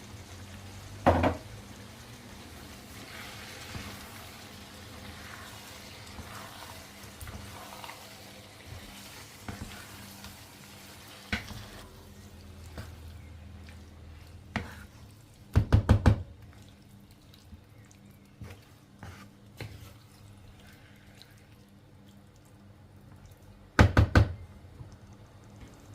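Household kitchen sounds: a faint tap running, then sharp knocks, including two quick clusters of three or four hard knocks.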